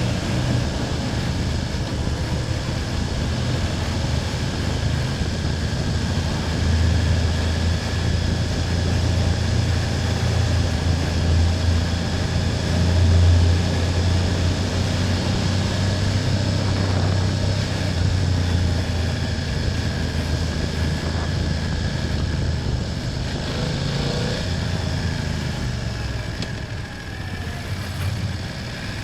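BMW F800GS parallel-twin engine running steadily while riding, loudest about halfway through and easing off slightly near the end.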